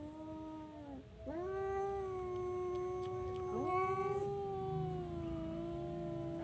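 Domestic cat yowling in long, drawn-out wails that sag in pitch at their ends, with a brief break about a second in. A second yowl rises in over the first about halfway through.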